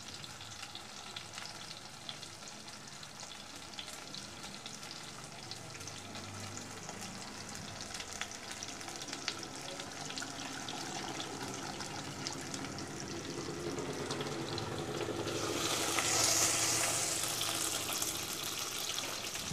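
Onions, tomatoes and green chillies frying in sesame oil in a pan: a steady sizzle with scattered small crackles. Near the end it swells into a brighter, hissier rush as tamarind water is poured into a steel bowl.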